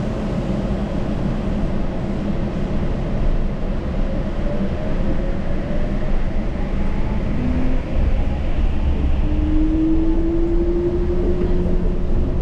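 Yurikamome rubber-tyred automated train running along its guideway, heard from inside the car: a steady low rumble of running noise. A faint whine rises in pitch about halfway through, and another rises slowly near the end.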